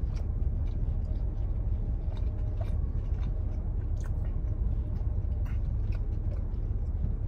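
A person chewing pizza with small wet mouth clicks, and biting into a slice near the end, over a steady low rumble.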